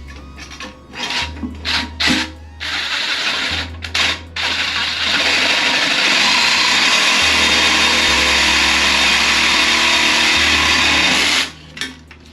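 Power saw with a fine-toothed metal-cutting blade cutting through a rusted toilet tank bolt. It starts with a few short bursts, then runs steadily for about six seconds before stopping suddenly near the end.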